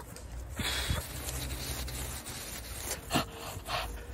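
Wood rubbing and scraping in short uneven strokes as a thick log is handled and carried.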